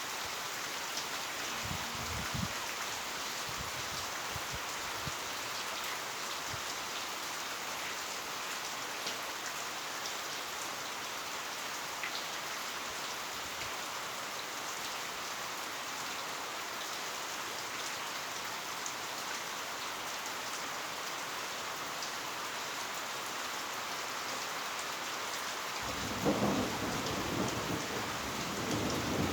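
Heavy rain falling steadily. Near the end a low rumble of thunder rolls in and rises above the rain.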